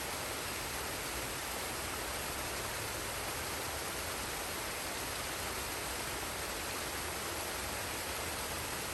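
Forest waterfall and stream: a steady, even rush of falling and flowing water.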